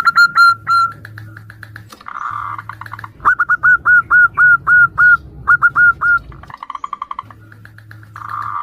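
Zebra doves (perkutut) cooing: bursts of quick, clipped, repeated notes, about five a second, alternating with rolling, burry phrases, as birds answer one another.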